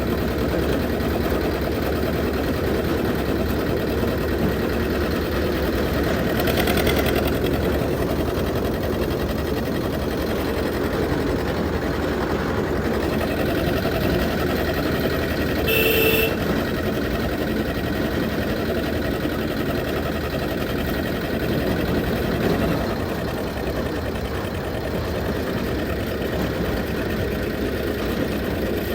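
Diesel engine of an old 1969-model Zetor tractor running steadily, with a short high-pitched tone about halfway through.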